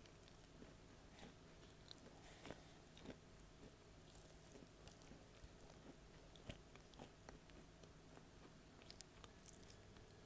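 Edible clay being bitten and chewed right at an earphone microphone: a string of faint, irregular crackles and clicks.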